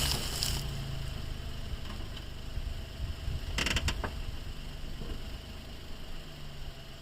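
Suzuki Every kei van on the move: a steady low engine hum with the cabin creaking, and a short rattle about three and a half seconds in.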